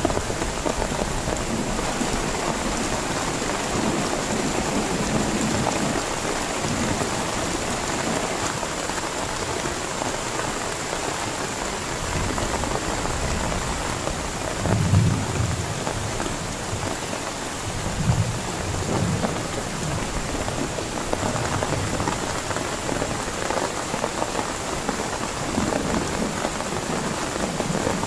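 Heavy rain falling steadily, with a few short low rumbles a little past halfway.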